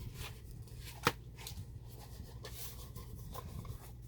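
Chipboard album pages being handled and folded open and shut: light rustling and small taps, with one sharp tap about a second in. A steady low hum runs underneath.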